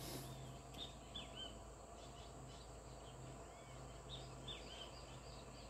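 Small birds chirping: many short, arching high-pitched chirps, faint, over a steady low hum.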